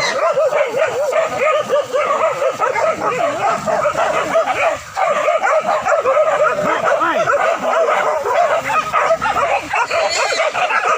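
A pack of hunting dogs barking and yelping at once, many voices overlapping without a break, as they set upon a wild boar.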